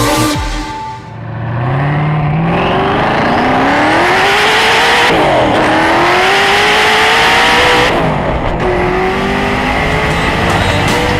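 Sports car engine accelerating hard, its pitch climbing steadily. It dips sharply at a gear change about five seconds in, climbs again, then eases off about eight seconds in.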